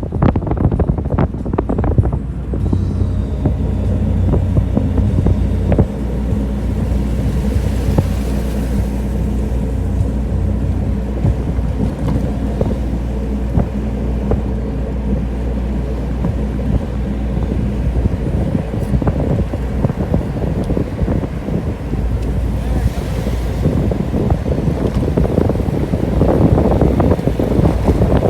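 Steady low rumble of a running vehicle, with wind noise on the microphone.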